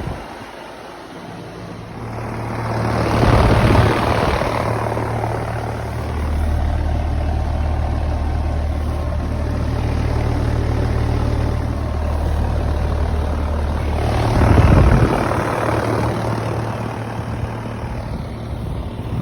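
Outdoor condensing unit of a 2007 Carrier Comfort Series 2-ton air conditioner running: a steady low hum under the rush of the condenser fan. The fan rush swells louder twice, a few seconds in and again near the end.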